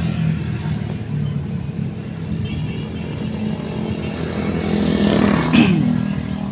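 Motor vehicle engine running steadily, with a vehicle passing close by about five seconds in, its pitch dropping as it goes by.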